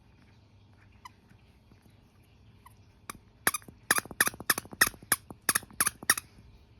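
A dog's squeaky toy squeaking in a quick run of about a dozen short squeaks as a chihuahua puppy bites on it. The run starts about three seconds in, after a quiet start.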